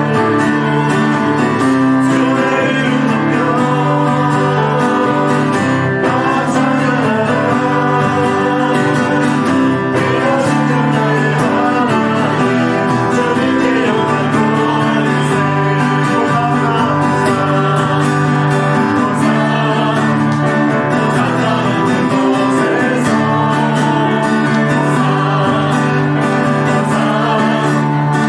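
Live worship band music with singing over guitar, a praise team performing a hymn.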